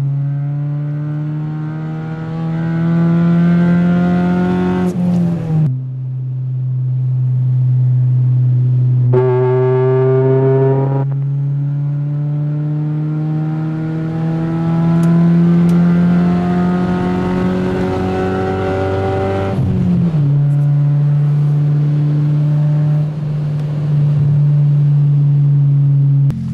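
Ford Focus with a Steelhaus aftermarket exhaust, the engine note rising slowly as the car accelerates and dropping suddenly at gear changes, about three times. It runs steadily near the end.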